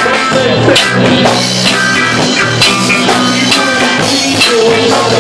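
Instrumental stretch of a roots reggae song between sung lines: the full band with drum kit playing a steady beat.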